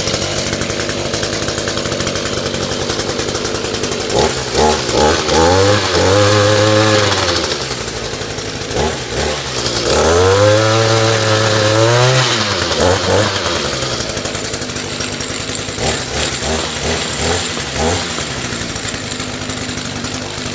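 Echo SRM210 two-stroke string trimmer engine running just after a cold start on a new carburetor. It idles with short throttle blips and is revved twice for a couple of seconds each, about five seconds in and again about ten seconds in.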